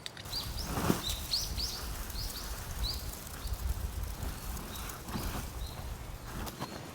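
Small bird chirping: a string of short, high notes, most of them in the first three seconds, over a low rumble.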